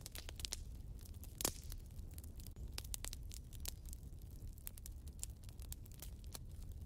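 Fireplace fire crackling: a steady run of small snaps and ticks, with one much louder pop about a second and a half in, over a low steady rumble.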